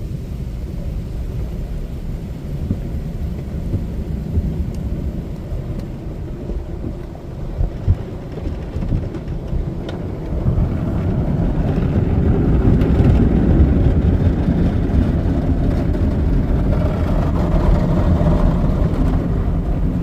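Tommy car wash tunnel equipment washing a car, heard from inside the cabin: a steady low rumble with water noise on the body, growing louder about halfway through.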